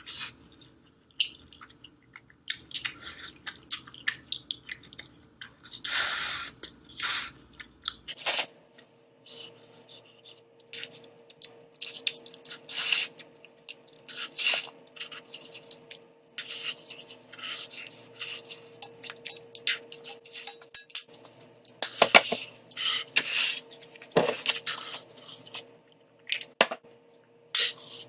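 A person slurping and chewing spicy instant ramen noodles close to the microphone, in quick irregular bursts. A faint steady hum sits underneath through the middle stretch.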